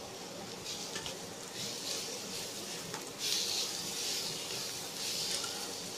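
Bitter gourd and onion slices sizzling in mustard oil in a steel kadhai, with a spatula stirring and lightly knocking the pan. The sizzle grows louder about three seconds in.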